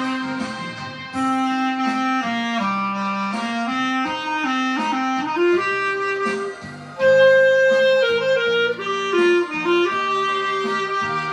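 Clarinet playing a melody of held and moving notes over an accompaniment with lower sustained notes.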